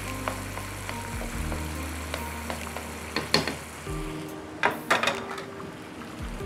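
Thick potato-tomato curry sizzling in its separated oil in a hot karahi just after the flame is switched off, while it is stirred with a wooden spoon. A few sharp clinks stand out, the loudest about three and a half and five seconds in.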